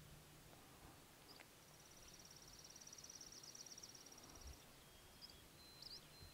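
Quiet outdoor ambience with a small bird's fast, high trill starting about a second and a half in and lasting about three seconds, followed near the end by a few short high chirps and a thin steady whistle.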